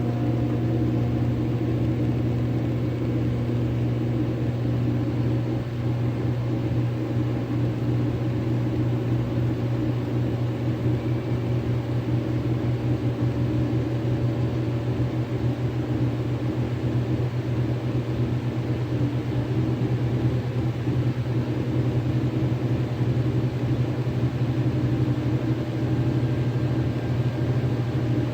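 Washing machine running with a steady low motor hum, wobbling on its feet.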